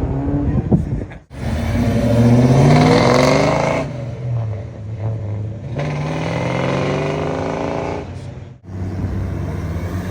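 Muscle car engines accelerating hard, the engine note rising in pitch again and again as they rev up and pull away. The sound cuts out abruptly twice, between separate passes.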